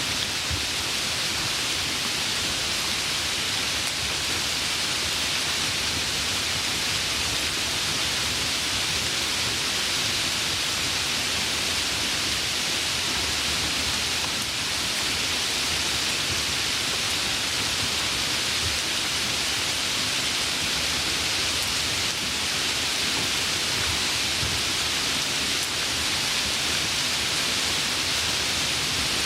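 Steady rain falling, an even hiss of many drops with no single drop or thunder standing out.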